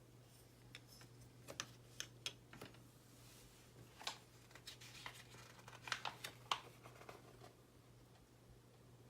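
Light, scattered clicks and taps of small model-kit parts being handled and pushed together, irregular and quick, over a steady low hum.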